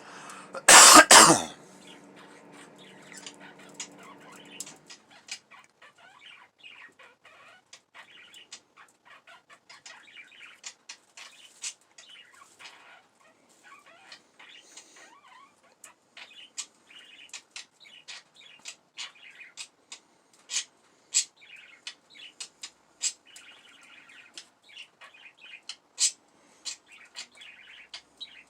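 Pet budgerigars chattering: a soft, continual warble full of quick clicks and short chirps. A loud, sudden noise sounds about a second in, and a low steady hum stops around five seconds in.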